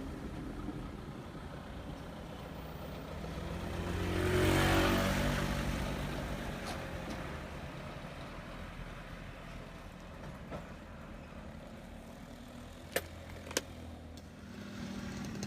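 A heavy vehicle, a truck or bus, passing close with its engine running: the engine and tyre noise swell to a peak about four to five seconds in, then fade. Two sharp clicks come about half a second apart near the end.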